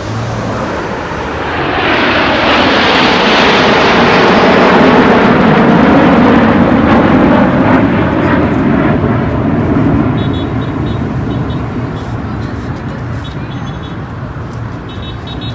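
A jet aircraft flying low past: a loud roar that builds, peaks, then fades away, its pitch sliding down as it passes.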